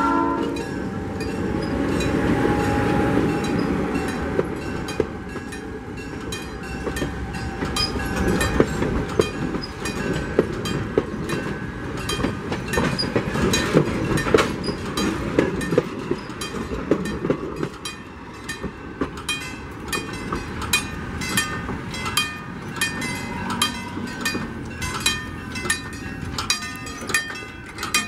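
Diesel-hauled passenger train rolling slowly past: the locomotive and then the passenger coaches rumble by, wheels clicking over rail joints. A railroad crossing bell rings in a steady rapid beat, plainest in the second half once the rolling noise fades.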